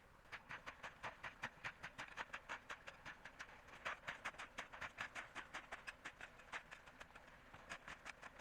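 Rapid, regular knocks, about four or five a second, with a short pause near the end.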